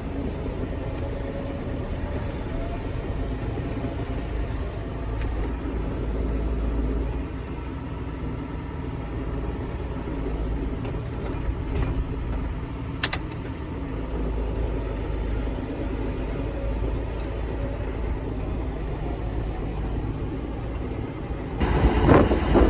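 Tractor engine running steadily under a low rumble of wind. A sharp click comes about 13 seconds in, and shortly before the end the sound jumps abruptly louder.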